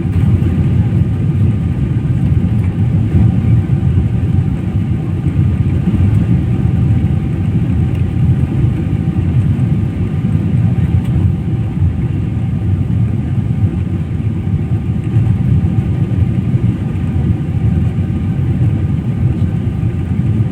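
Airliner cabin noise in flight: a steady, loud low rumble of engines and airflow, with faint steady whining tones above it.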